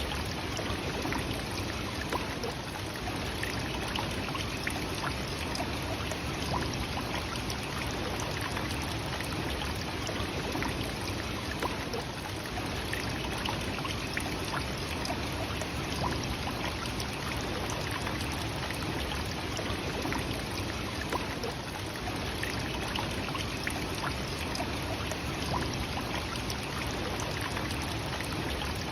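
Nachi Falls, a 133-metre waterfall, pouring steadily: a continuous, even rush of falling water.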